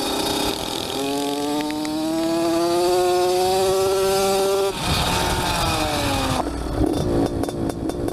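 Small motorcycle engine accelerating hard, its pitch climbing steadily for about four seconds, then dropping suddenly and falling away as the throttle is eased off; rougher, clattering noise near the end.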